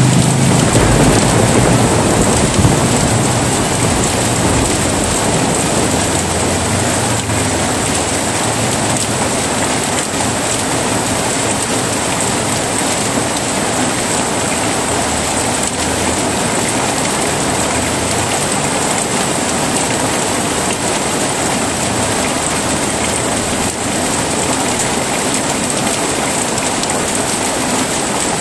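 Heavy rain falling steadily, with a low rumble of thunder dying away over the first few seconds.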